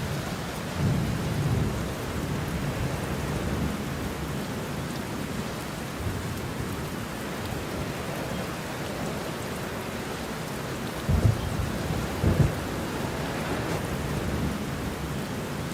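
Steady rain with rolling thunder, rumbling low about a second in and again with stronger peaks around eleven to twelve seconds in.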